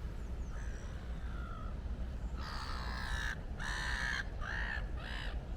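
A crow cawing: a run of about five caws starting about two seconds in, the first long and each after it shorter. Under it runs a steady low rumble of wind on the microphone, with a few faint bird chirps early on.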